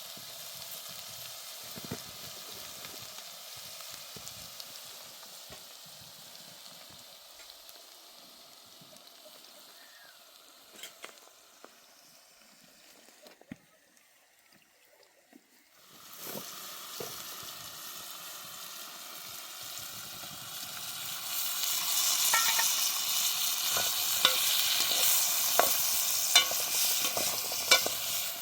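Food sizzling as it fries in a pan. The sizzle fades almost to nothing about halfway, then returns and grows louder, with sharp clicks of a utensil stirring against the pan near the end.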